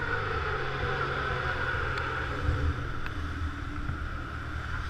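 Motor scooter engine running steadily while riding.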